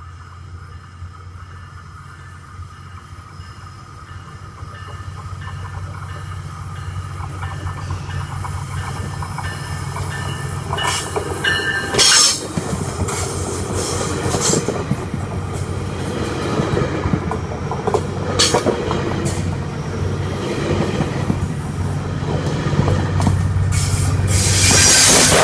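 GO Transit bilevel commuter train pulling into a station and rolling past close by, with a steady low drone and rail clatter that grow louder as it comes in. Wheels squeal sharply about halfway through and again near the end.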